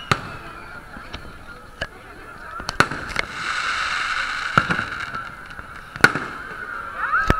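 Fireworks display: aerial shells going off with sharp bangs at uneven intervals, about one every second or two. A long horn-like honk sounds from about three to five seconds in.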